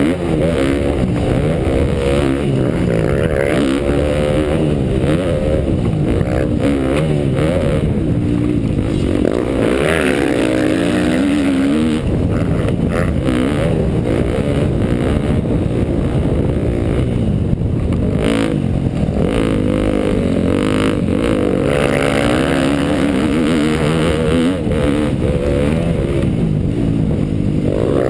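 2012 KTM dirt bike engine being ridden around a motocross track, its pitch rising and falling over and over as the throttle is opened and closed.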